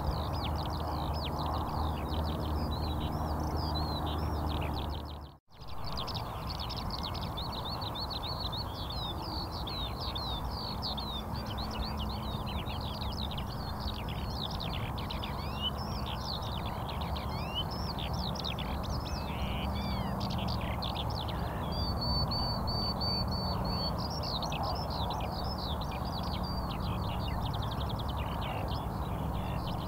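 Many small birds chirping densely and without pause, over a steady low hum. The sound cuts out briefly about five seconds in.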